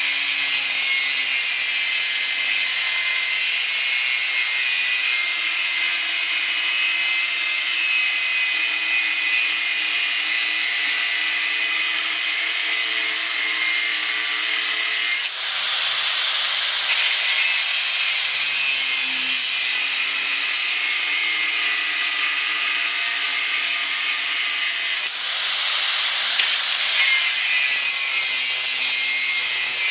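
A power tool working steel plate, a steady high-pitched hiss with faint whining tones that runs on continuously, changing briefly about halfway through and again near the end.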